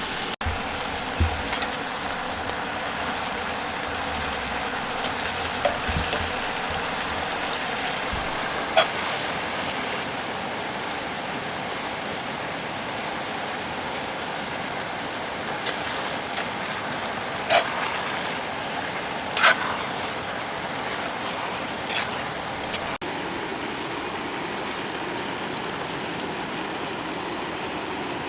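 Steady rain falling, a continuous even hiss, with a few short sharp clicks scattered through it.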